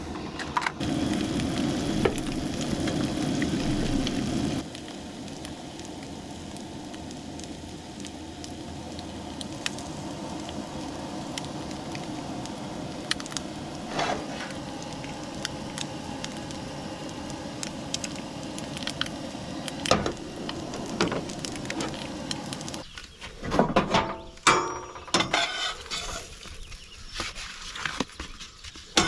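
Eggs frying in a pan for breakfast sandwiches, a steady sizzle with scattered small crackles and clicks; it is louder for the first few seconds and drops off about four seconds in. Near the end come irregular clatters and knocks of pan and utensil handling.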